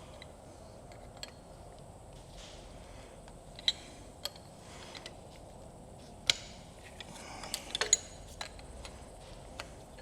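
Hand tools clinking and tapping against metal while working on a small-block Chevy 327 engine: a handful of sharp, irregular clinks, with a brief cluster of them near the end.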